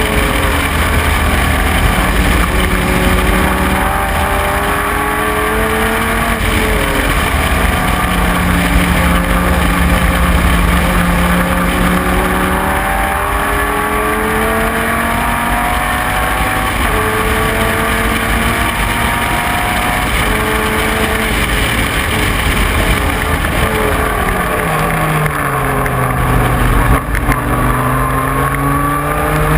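Dodge Viper GT3's V10 racing engine under hard acceleration, its pitch climbing through each gear and dropping back at the shifts. About 24 s in it falls to a low note on a lift and downshift, then pulls away and climbs again.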